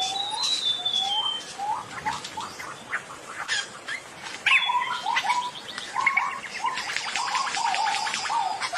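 Great argus pheasant calling in the rainforest: a series of short, upward-hooked notes, spaced out at first and coming faster and denser after about four seconds. Other forest birds call and chip behind it, including a high whistle that slides down near the start.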